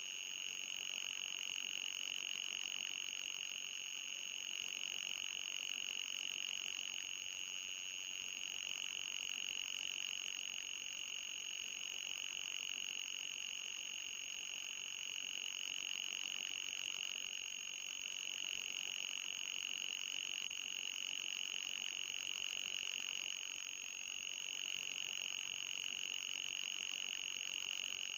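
Electronic anti-mosquito repellent tone: a steady, high-pitched buzzing tone with a fainter, higher whine above it, wavering slightly but otherwise unchanging.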